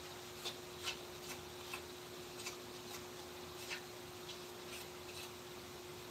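Faint, sharp clicks at irregular intervals, about nine in all, as of carving tools tapping and cutting on wood, over a steady low hum.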